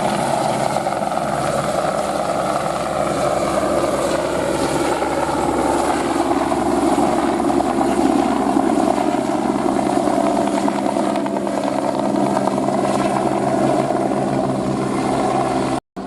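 Airbus AS350 helicopter flying overhead, a loud steady rotor and turbine sound that cuts off abruptly just before the end.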